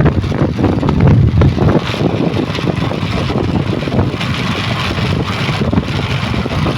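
Steady motor-vehicle noise with wind buffeting the microphone.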